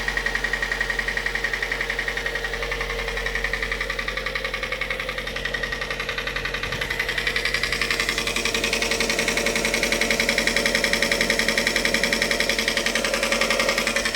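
Car engine running with a rapid, even ticking knock, growing louder about halfway through. The knock sounds like hydraulic lifters, though the owner is unsure that is the cause.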